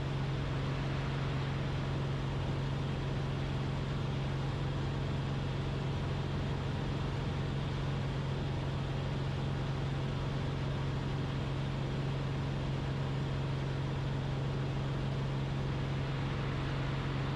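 Cessna 172RG's Lycoming four-cylinder engine and propeller droning steadily at climb power just after takeoff, heard from inside the cabin. The pitch and level hold steady throughout.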